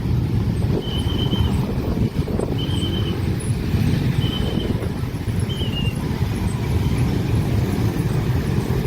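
Train rumbling past a level crossing at speed, a loud steady low rumble of wheels on track. Over it, the crossing's warning signal sounds a short high tone about every second and a half.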